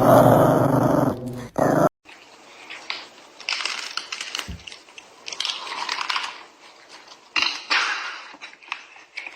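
A dog making noises: after a loud pitched sound that cuts off about two seconds in, a run of short, irregular, breathy bursts with a few clicks.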